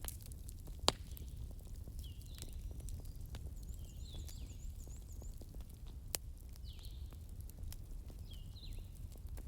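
Burning logs crackling over a low steady rumble, with a sharp pop about a second in and another about six seconds in. Birds chirp repeatedly in the background, with a quick high trill around four to five seconds.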